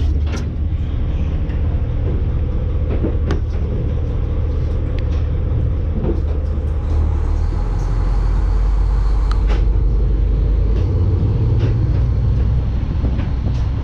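Fishing party boat's engine running with a steady low rumble. About halfway through, the rumble drops lower and grows louder.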